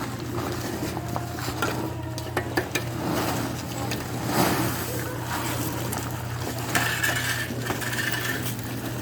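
Light metallic clinks and scraping over a steady low hum, with a louder rustling clatter about halfway through.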